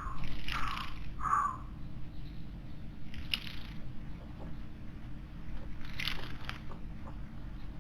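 Wild bird calling in a garden: a quick run of short harsh calls in the first second and a half, then two brief scratchy sounds about three and six seconds in.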